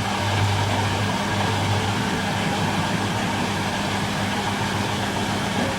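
Miele Little Giant PWM507 commercial washing machine in its 500 rpm intermediate spin, the drum and motor running with a steady whirr and a low hum that weakens about a second in.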